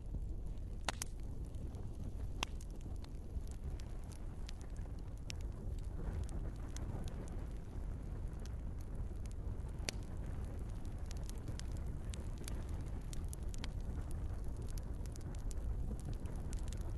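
Wood logs burning in a fireplace: a steady low rumble of flame with frequent sharp crackles and pops, a few louder pops about a second in, two and a half seconds in and around ten seconds in.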